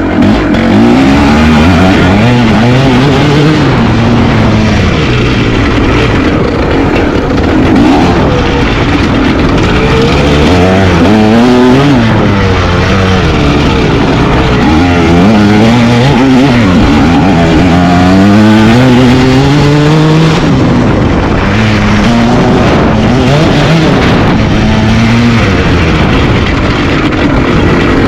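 Dirt bike engines revving hard, pitch climbing and dropping again and again as the riders open the throttle and shift through the gears.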